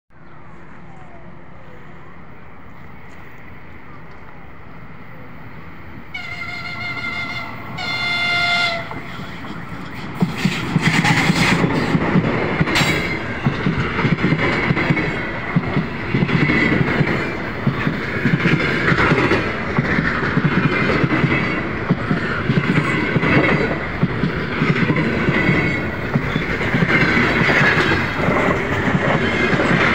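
Two short horn blasts from an EP20 electric locomotive, about six and eight seconds in, sounded as a greeting. Then the double-deck passenger train passes close by: wheels clattering rhythmically over the rail joints with a loud, steady rumble.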